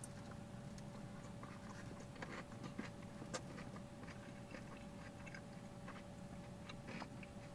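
A person biting into and chewing a mouthful of Chicago-style hot dog, faint moist clicks and smacks scattered through, over a faint steady hum.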